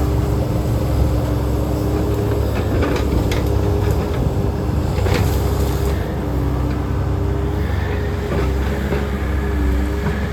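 Takeuchi machine's diesel engine running steadily while clearing trees, its pitch dipping slightly now and then under load. A few sharp cracks sound about three and five seconds in.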